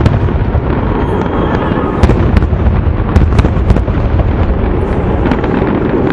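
Aerial fireworks bursting in quick succession: a continuous rumble of booms with many sharp cracks on top, most closely packed between about two and three and a half seconds in.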